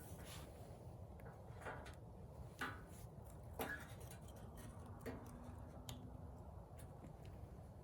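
Wood campfire crackling faintly: irregular sharp pops and snaps, about one a second, over a low steady rumble.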